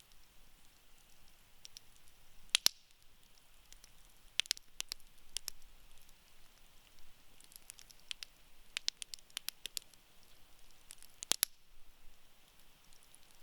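Wood campfire crackling: irregular sharp pops and snaps over a faint hiss, with two louder snaps about two and a half and eleven seconds in.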